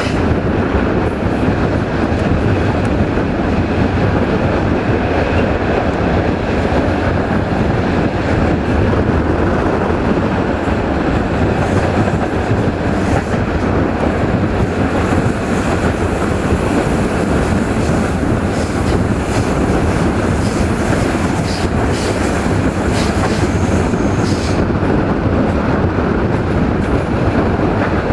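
Passenger train coaches running along the track, heard from the coach window: a steady rumble of wheels on rail. A few sharp clicks come over the rumble in the second half.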